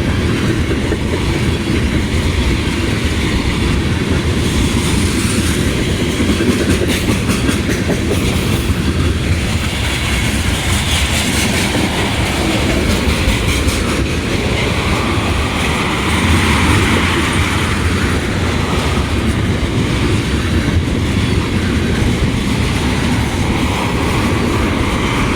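Freight train cars rolling past at a crossing: a steady rumble with the clickety-clack of wheels over the rail joints.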